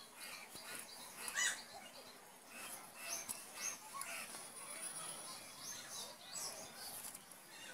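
Small birds chirping: a scatter of short, high calls.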